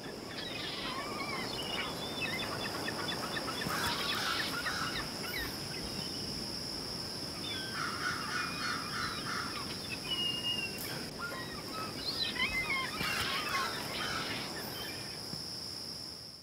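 Birds chirping and calling in several short bouts over a steady high-pitched whine, fading out at the very end.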